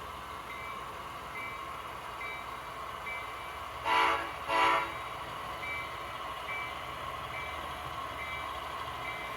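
Horn of a sound-equipped HO scale Athearn SW1500 switcher model sounding two short blasts about four seconds in, over the steady hum of its diesel engine sound.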